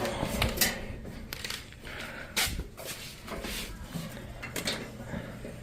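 Scattered knocks, clicks and clatters of objects being handled in a small room, over a low steady hum.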